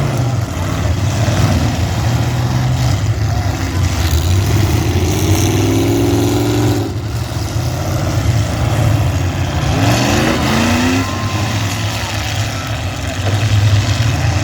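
Several demolition derby cars' engines running loudly, rising in pitch as they are revved hard twice, about a third of the way in and again past two-thirds.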